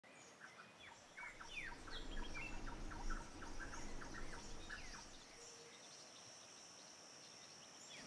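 Faint birdsong: a quick series of short chirps and calls from small birds in the first half, thinning out after about five seconds, over a thin steady high-pitched tone.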